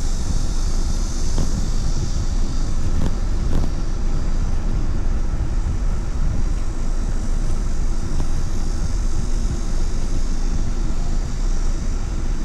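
Wind rushing over the microphone of a moving rider, a steady, loud buffeting rumble with a hiss of road noise above it.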